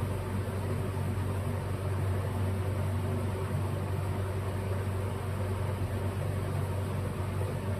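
Steady low machine hum with an even hiss, like a fan or air conditioner running, at a constant level throughout.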